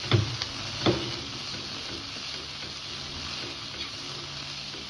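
Chopped vegetables frying in ghee in a kadhai with a steady sizzle, and two sharp knocks in the first second.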